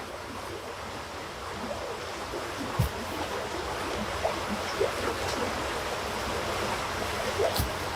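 Steady rushing of running water, with two dull knocks, one about three seconds in and one near the end.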